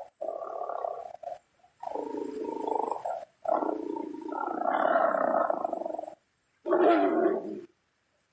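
Tiger calling in four separate stretches, each about one to three seconds long, broken by sudden cut-offs into silence.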